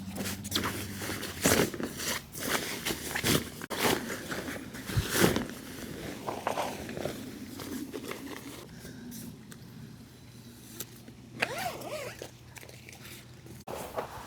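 Irregular crunching, rustling and knocking, as of someone walking about and handling gear, with a faint steady low hum in the first half.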